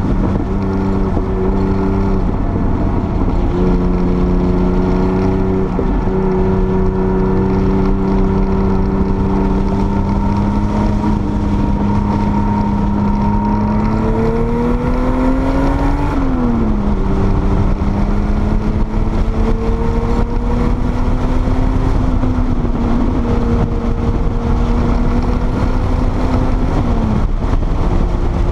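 Porsche 930 Turbo's turbocharged air-cooled flat-six running hard at speed, its note climbing slowly for long stretches. The note drops sharply about two-thirds of the way through, climbs again and falls near the end, over heavy wind and road rumble.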